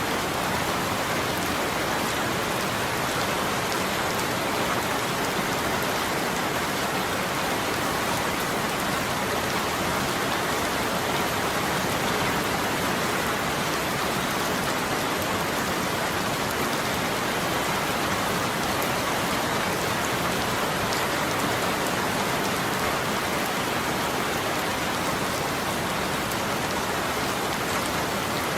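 Steady rain falling, an even hiss of many drops spattering on surfaces, with no let-up.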